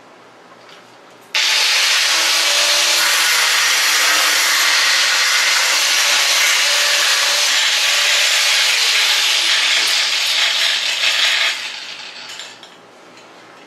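An angle grinder with an abrasive cutoff wheel cutting into a steel table leg: a loud, even, hissing grind that starts suddenly about a second in, runs for about ten seconds and tails off near the end. The brand-new cutoff wheel fails on this cut, its centre hub ripping out.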